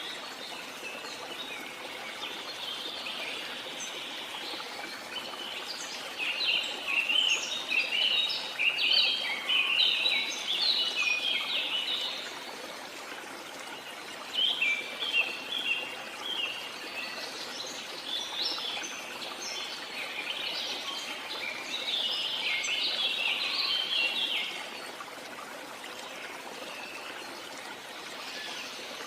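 Steady rush of flowing water with bursts of high chirping bird calls over it, in two long bouts; the second bout cuts off fairly suddenly near the end.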